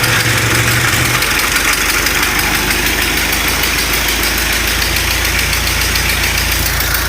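A 1930 Ford Model A's flathead four-cylinder engine running just after being started with the hand crank. About a second in its speed drops, and it settles into a steady idle.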